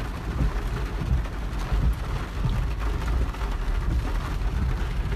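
Rain falling on a car's roof and windscreen, heard from inside the cabin as a dense, steady patter of drops, with a steady low rumble underneath.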